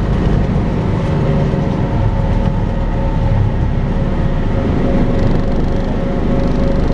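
Volvo B5LH hybrid double-decker bus running, a steady low rumble with a constant vacuum-cleaner-like whine, the 'hoovering' noise, which grows stronger in the second half.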